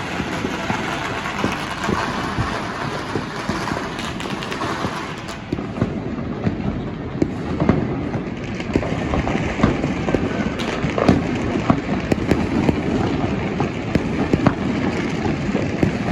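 Many firecrackers and fireworks going off at once: a dense, continuous crackle of rapid pops with louder bangs scattered through it, growing thicker from about halfway in.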